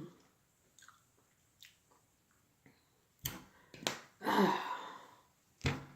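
Close-miked eating of fried catfish: several sharp clicks and smacks, and a longer stretch of noisy chewing a little past the middle.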